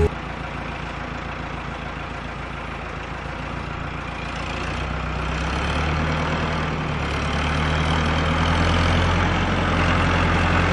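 A motor running steadily with a low hum, getting gradually louder.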